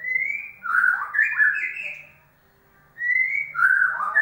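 White-rumped shama (murai batu) singing: two loud phrases, each opening with a rising whistle and breaking into a quick run of varied whistled notes, with a short pause between them.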